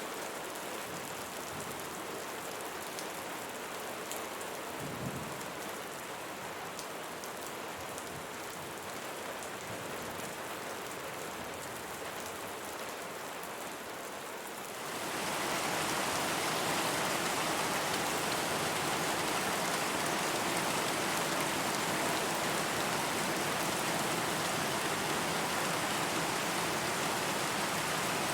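Steady rain falling, with scattered individual drops audible at first and a soft low thud about five seconds in. Halfway through, the rain suddenly becomes heavier and louder, then holds steady.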